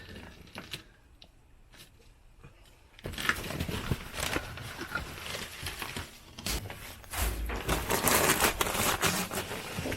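Rustling, crinkling and crunching of loose material being handled and pulled apart by hand, starting about three seconds in and loudest near the end.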